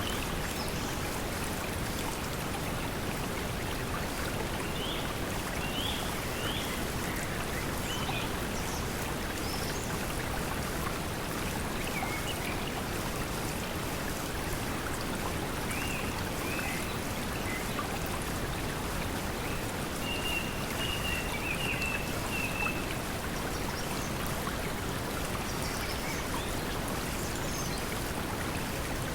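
Steady pink noise mixed with the sound of flowing water, with scattered bird chirps over it and a longer trill about two-thirds of the way through.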